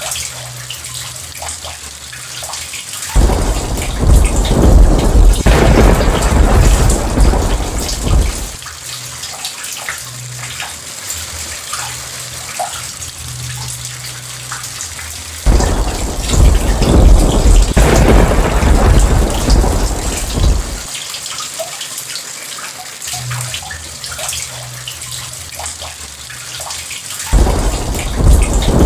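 Steady heavy rain with three long rolls of thunder, each starting suddenly and rumbling for about five seconds; the third begins near the end.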